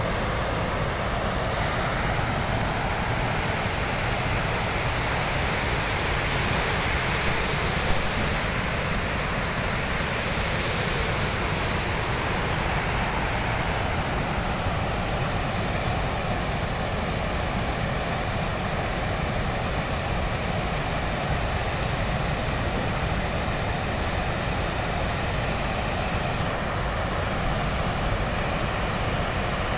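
Water from a dam overflowing in the rain pouring over it, a steady rush of water.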